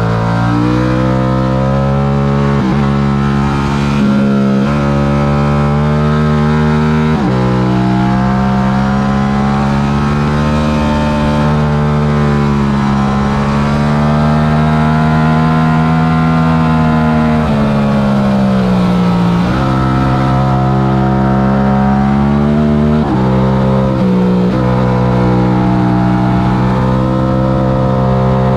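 Stock Yamaha R7's parallel-twin engine racing at full throttle. It climbs in pitch and drops sharply at quick upshifts a few seconds apart early on, then holds high revs with rises and falls. Its pitch sinks while slowing around two-thirds of the way in, then picks up again with further shifts.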